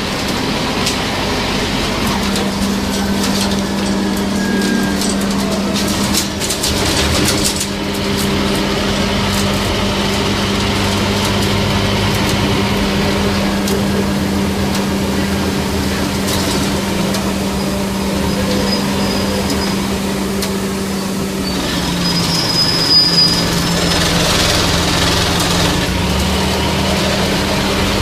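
Scania CN270UB city bus under way, its diesel engine running with a steady note and some rattling. About three-quarters of the way through, the engine note shifts and a brief high squeal follows.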